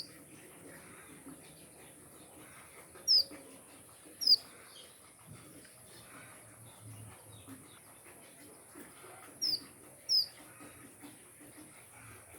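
Small finches in an aviary giving short, sharp single chirps, four times, in two pairs a few seconds apart.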